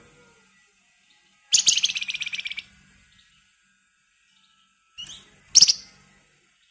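Flamboyan bird (wergan jawa) calling. About a second and a half in comes a fast, tightly repeated chattering trill lasting about a second. Near the end there is a short rising note and then a single sharp, loud call.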